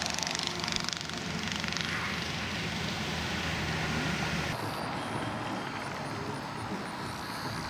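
Steady outdoor background noise, a rushing hiss with a low rumble. The hiss drops away abruptly about four and a half seconds in.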